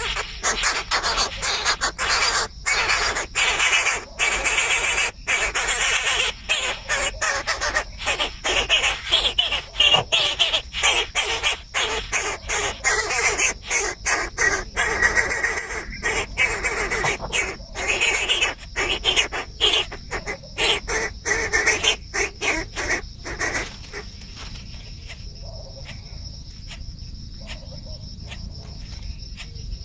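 Birds chirping busily over a steady high insect drone; the chirping drops away about 24 s in, leaving mainly the insect buzz.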